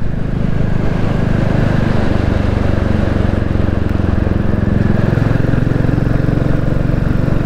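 Royal Enfield Classic 350's single-cylinder engine running under throttle at road speed, pulling steadily in fourth or fifth gear on its low-down torque through a bend.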